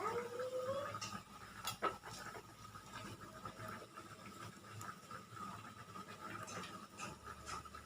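Kitchen utensils clinking and scraping against dishes and pans, with scattered sharp clicks.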